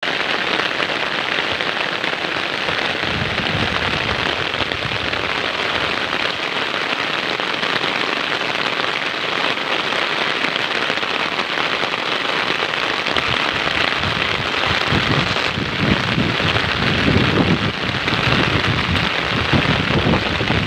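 Steady rain falling, an even hiss throughout, with uneven low rumbling swelling in over the last several seconds.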